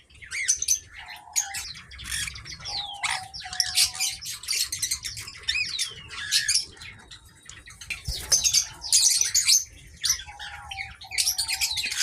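Cockatiels in an aviary chirping and squawking nonstop, a dense run of short shrill calls with a few downward-sliding whistles and some short, flat, lower notes mixed in.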